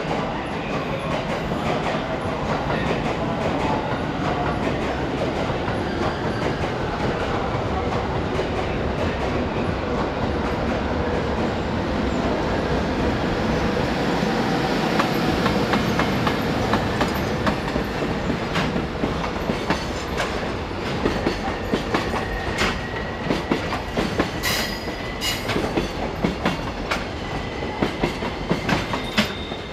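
JR Freight EH500 electric locomotive running through a station, then a long train of container wagons rolling past. It grows louder as the locomotive goes by about halfway through. After that the wagon wheels make a clickety-clack over the rail joints, with a thin high-pitched wheel squeal coming and going.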